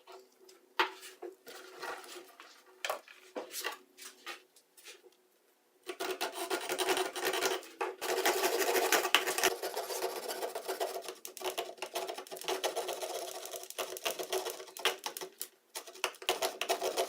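Light knocks and handling clicks, then from about six seconds in a small power saw rapidly cutting a thin 1/8-inch wooden plate for about ten seconds before stopping.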